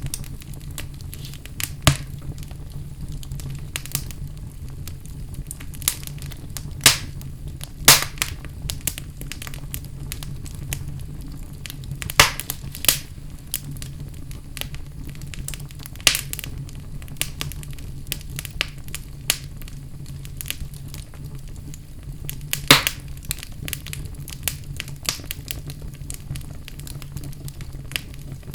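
Wood fire burning in a fireplace: a steady low rumble with sharp crackles and pops of burning logs every second or few.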